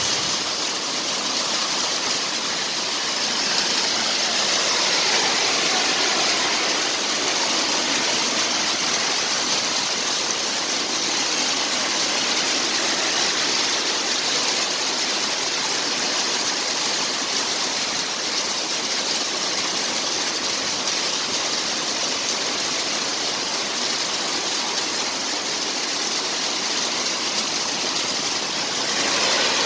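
Heavy rain with a little hail falling steadily on a road and gravel, an even hiss.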